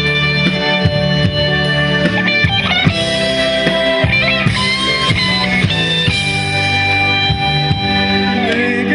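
Live band playing a rock song: an electric guitar carries the melody with held and bent notes over bass and drums.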